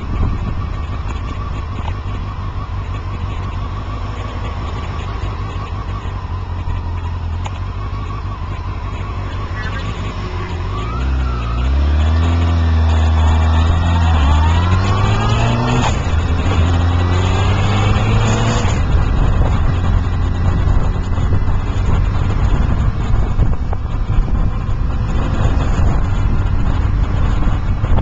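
A motor vehicle's engine over steady rumbling noise. Near the middle its pitch dips and climbs twice over about eight seconds, then drops away suddenly.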